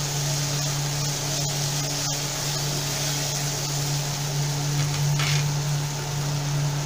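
Onion, tomato and spice masala sizzling as it fries in a pan, over a steady low hum.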